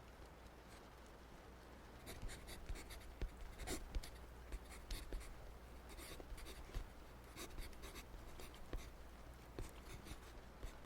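Writing on paper, a run of short, irregular scratchy strokes starting about two seconds in, over a faint steady background.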